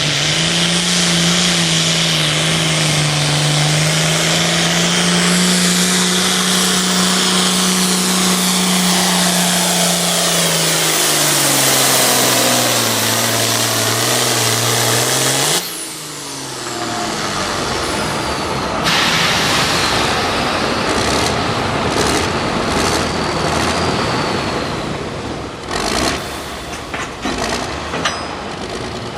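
A pulling vehicle's engine runs flat out under load as it drags the weight sled, its pitch holding steady and then sagging as it bogs down. About 15 seconds in the engine cuts off abruptly, marking the end of the pull. A steady noisy rush with scattered clicks follows.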